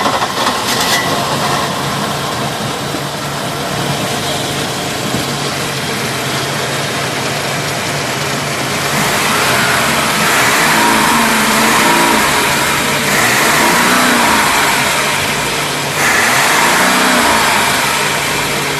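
A boat's twin engines running together, held at a steady idle at first and then revved up and back down three times.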